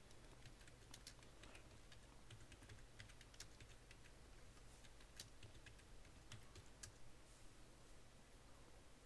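Faint, irregular clicking, like typing on a computer keyboard, over a steady low hum.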